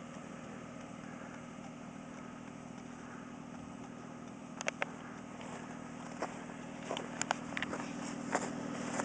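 An engine running steadily, a low even hum, with a few sharp clicks or crunches from about halfway through.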